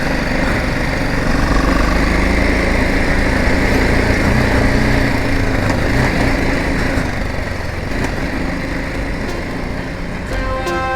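Motorcycle engine running as the bike is ridden, under steady wind and road noise on the helmet-mounted camera's microphone. Background music comes in near the end.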